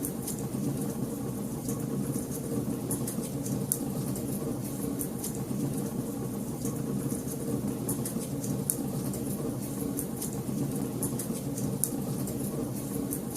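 Wood fire burning in a fireplace: a steady low rumble of flames with frequent small, sharp crackles and pops at irregular intervals.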